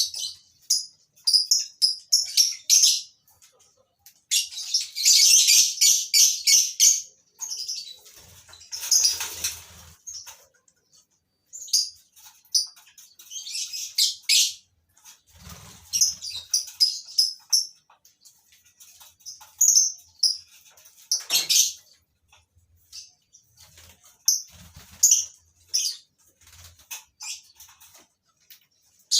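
Colony-kept lovebirds chirping in short, shrill, irregular bursts, thickest in a run of rapid chatter about five seconds in. A few faint low thumps sound among the calls.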